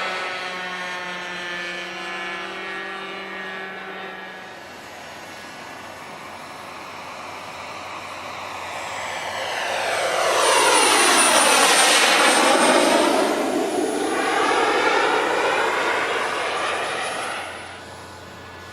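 An RC F-16 model jet's engine making a flyby. Its rushing whine fades as it moves away, then swells to a loud pass about ten to thirteen seconds in, the pitch sweeping down and back up, before dropping away near the end.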